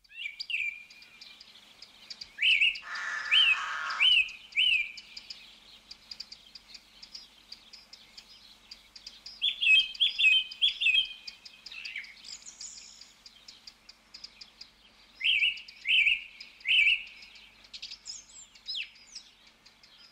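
Garden birds chirping: groups of short, sharp, repeated call notes with quieter spells between them, and a brief harsher, lower sound about three seconds in.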